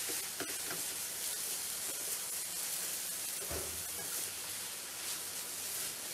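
Yellow noodles sizzling steadily in a hot nonstick wok as they are stir-fried with a silicone spatula, with a soft knock of the spatula against the pan now and then, strongest about three and a half seconds in.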